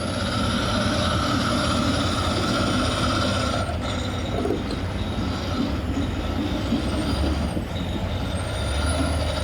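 Heavy diesel engines of an excavator and a loaded dump truck working steadily under load as the excavator pulls the mired truck out of the mud on a chain, with a steady whine over the low engine noise.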